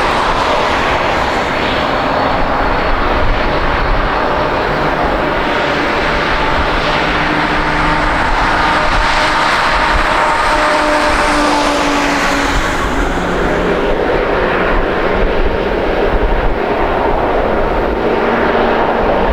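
Jet airliner's engines running loud and steady close by, a broad roar with a faint whine over it; the hissy upper part of the roar thins out about thirteen seconds in.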